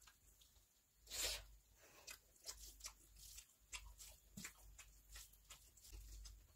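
Close-miked eating sounds: chewing and wet lip-smacking of a hand-fed mouthful of biryani, a string of short clicks and squelches with one louder smack about a second in.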